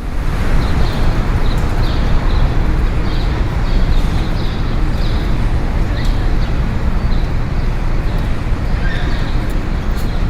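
Busy fish-market ambience: a loud, dense hubbub of voices and activity, with a run of short high-pitched squeaks or chirps repeating about twice a second.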